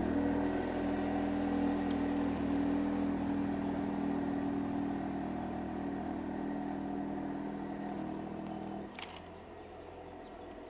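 Volkswagen Jetta's engine running at a low, steady speed as the car backs away down the driveway, fading gradually as it moves off. A short click comes about nine seconds in.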